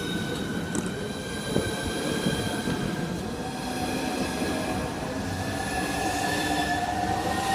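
Southeastern Class 395 electric train at the platform, its electrics giving a steady whine of several tones over a rumble. A lower tone joins about halfway through and the tones shift slightly in pitch near the end, as the equipment loads up.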